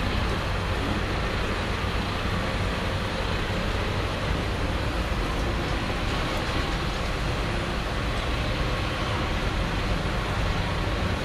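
Tractor engines running steadily with a low hum.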